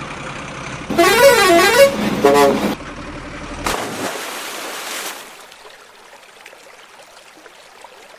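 A truck's engine running while its horn sounds a loud warbling tune that rises and falls, followed by a shorter second blast. The engine then cuts out into a rushing noise that fades away, leaving the faint trickle of flowing water.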